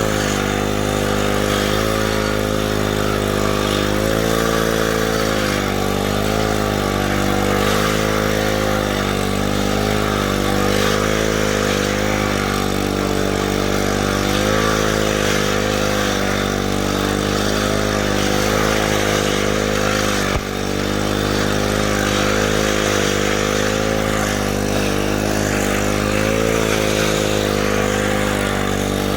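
Engine of rail-repair equipment running steadily, its pitch wavering slightly every second or two, with a brief dip about two-thirds of the way through.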